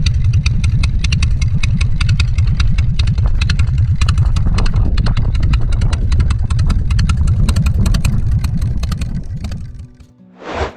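Motorcycle engine running loudly with a rapid, uneven exhaust pulse. It fades out just before the end and is followed by a brief rushing swell.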